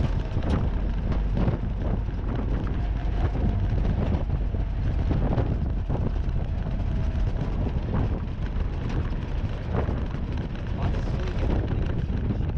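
Willys Jeep engine running steadily, as if under way, with wind buffeting the microphone.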